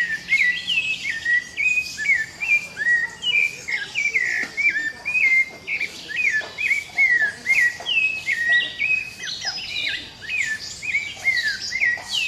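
Small birds chirping busily: many short, overlapping chirps, several a second, most dropping quickly in pitch.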